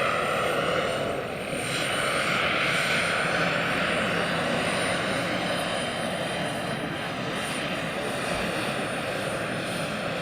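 Turbine engine and rotor of a large scale-model SA 315B Lama helicopter running steadily: an even rushing noise with a thin, high turbine whine held on top.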